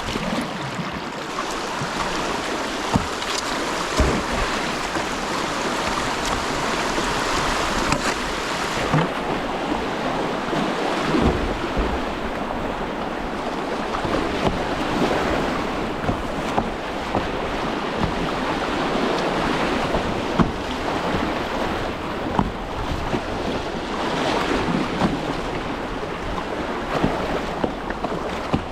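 Rushing whitewater river water around a kayak, a steady wash of noise broken by scattered short, sharp splashes and knocks.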